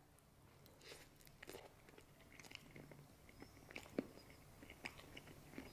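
Faint chewing of a mouthful of Spanish potato omelette: soft, scattered mouth clicks, with one slightly sharper click about four seconds in.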